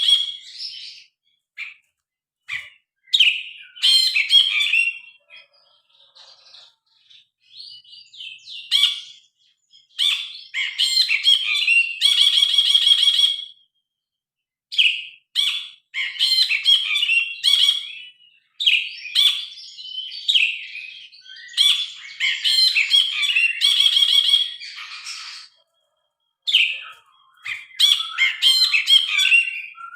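Brinji kelabu, a bulbul, singing loud, varied phrases of chirps and whistles with short pauses, twice breaking into a longer buzzy trill.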